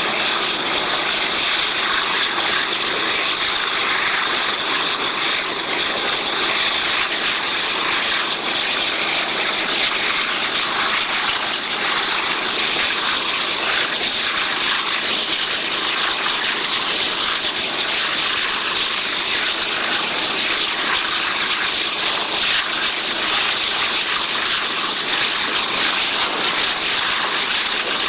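Steady rush of wind and running noise of a moving passenger train, heard from an open coach window, loud and unchanging throughout.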